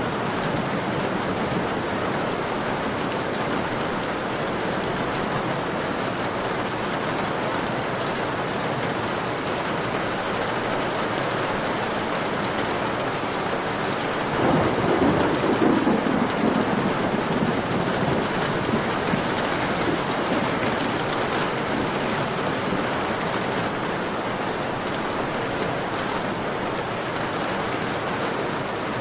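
Steady rain pattering on a window. About halfway through, a roll of thunder swells suddenly and fades over a few seconds.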